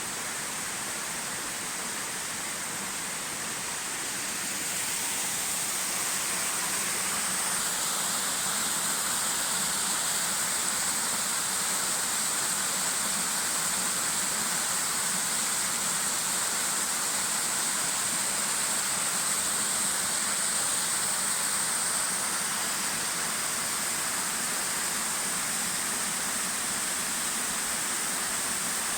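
Amagoi Falls waterfall: water falling in a steady, even rush that grows a little louder about five seconds in.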